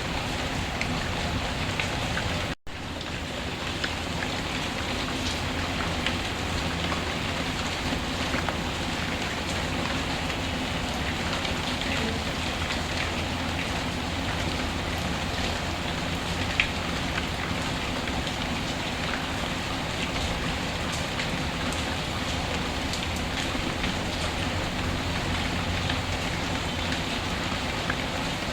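Steady rainfall mixed with a wood fire crackling, with scattered sharp pops through it. The sound drops out for a split second about two and a half seconds in.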